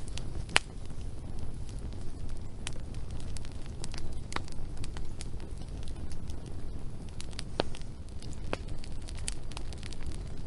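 Wood fire burning with a steady low rumble, crackling with scattered sharp pops, the loudest about half a second in.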